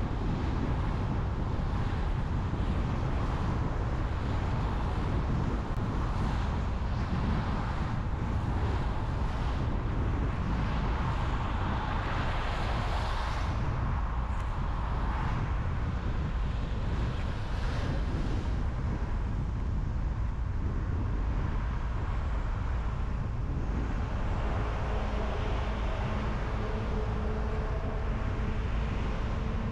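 Car driving on a highway: steady tyre and wind noise over a low rumble, swelling twice around the middle.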